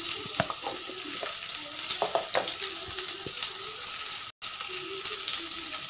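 Potato chunks frying in hot oil in a kadai: a steady sizzle with scattered crackles and pops. The sound cuts out for a split second about four seconds in.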